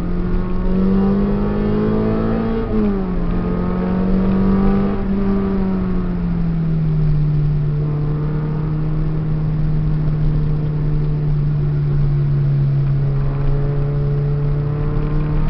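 Peugeot 306 engine heard from inside the cabin under hard driving. The revs climb for about three seconds, drop sharply at a gear change, hold, then fall about six seconds in to a steady lower note that starts to rise again near the end.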